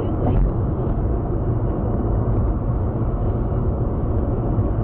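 Steady low rumble of a car driving, engine and road noise picked up by a dashcam microphone.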